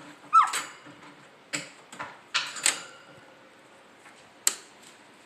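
Black-capped caique giving a short squeak that falls in pitch, followed by several short sharp clicks spaced a second or so apart.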